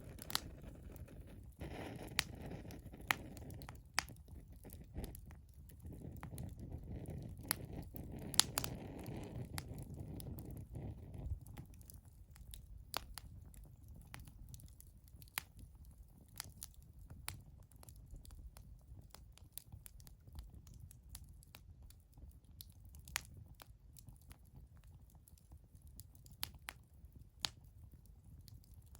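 Wood bonfire crackling, with irregular sharp pops scattered throughout. A low rushing rumble underneath is stronger for the first ten seconds or so, then dies down.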